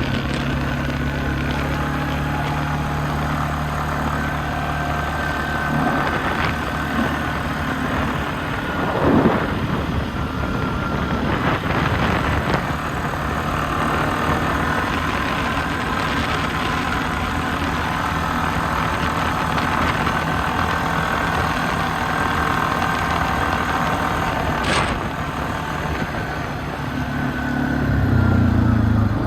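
ATV engine running steadily at a low, even pace, then revving up and getting louder in the last couple of seconds.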